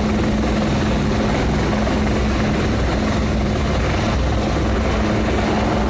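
Helicopter rotor noise, steady and loud, with a constant low hum and a pulsing low rumble.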